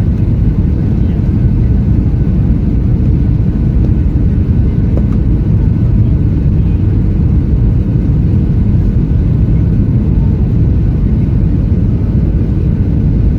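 Airliner noise, a loud steady low rumble with no changes in pitch or level.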